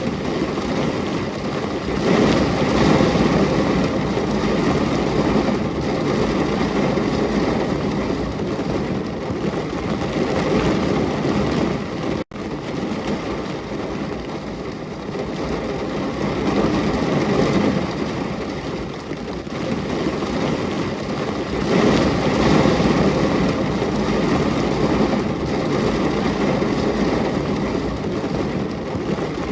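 Steady heavy rain, an even hiss that swells and eases in strength. It drops out for an instant about twelve seconds in.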